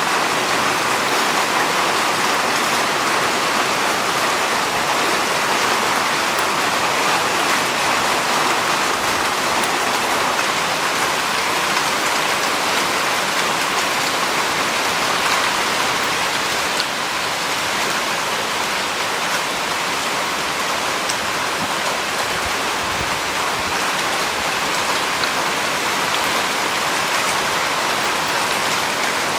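Heavy monsoon rain pouring down in a steady, dense hiss with fine pattering drops; it eases slightly about halfway through.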